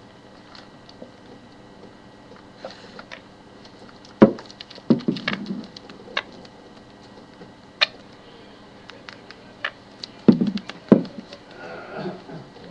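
Pet bird pecking at an iPod Touch, giving about half a dozen sharp taps at irregular intervals, with a few short low sounds between them.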